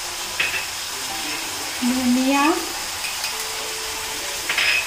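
Tomato-and-spice masala frying in oil in a pan, a steady sizzle, with a couple of light clicks about half a second in and near the end.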